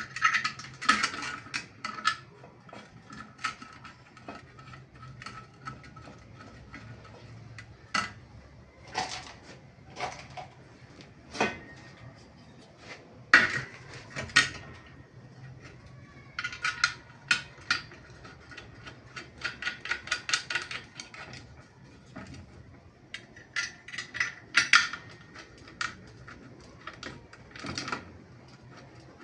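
Metal parts being handled and worked at a wheel truing stand: scattered clinks and knocks, with several runs of quick clicking.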